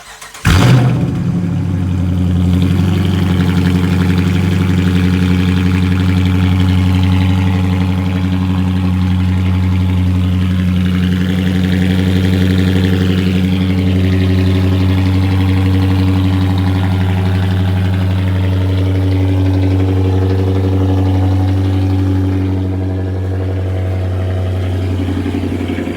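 Car engine cold-starting: it catches within a second, flares up, then settles into a loud, steady idle. The idle drops slightly in level near the end.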